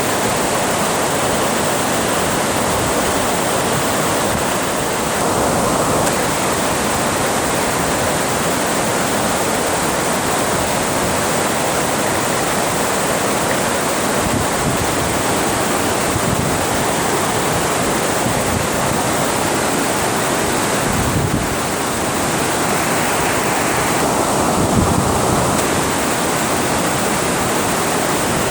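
Water pouring over a dam, a loud steady rush of falling water.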